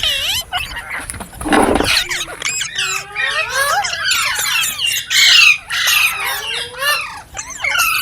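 Ringneck parrot chattering and squawking: a fast, unbroken run of wavering whistled glides and harsh calls. The loudest squawk comes about five seconds in.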